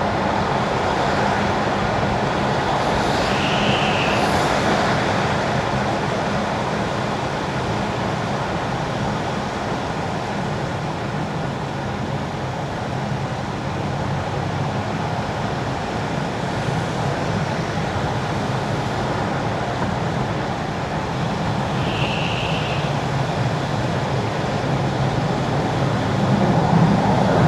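Tyres running on wet winter asphalt with steady road noise from a car driving through city traffic. A brief high-pitched tone sounds twice, a few seconds in and again about three quarters of the way through. The noise swells slightly near the end.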